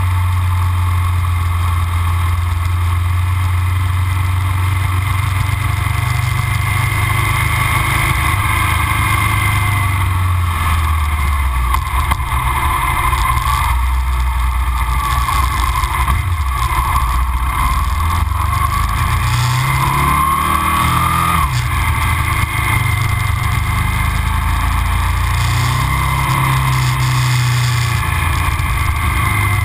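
Aprilia RSV 1000 V-twin running through Arrow silencers while riding, with steady wind noise. The engine note drops about ten seconds in as the bike slows, then climbs twice as it accelerates, once around twenty seconds in and again near the end.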